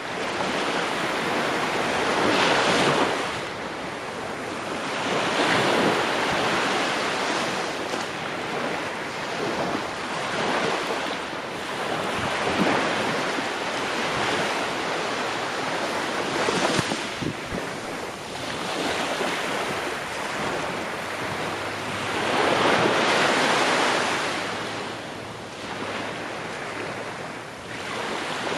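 Ocean waves breaking and washing on the shore, the surf swelling and falling back every few seconds, with a steady rush of wind.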